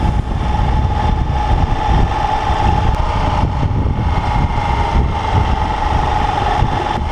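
Motorcycle engine running at a steady pitch over a dense low rumble.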